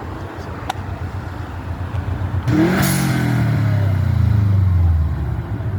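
A car accelerating hard past, its engine loud from about two and a half seconds in, with its pitch falling steadily until it fades near the end.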